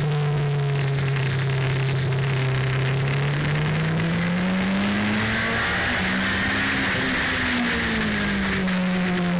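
Car engine heard from an on-board action camera. Its note sags, climbs steadily for a few seconds about halfway through, then eases off near the end. Wind and road noise rush steadily under it.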